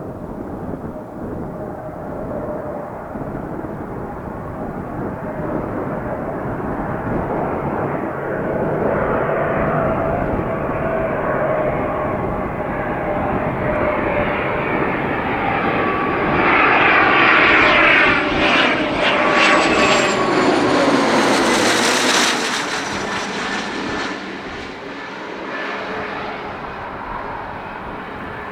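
An airliner's engines passing by the airport. The noise builds steadily to a peak about two-thirds of the way through, where a whine slides down in pitch, then fades off.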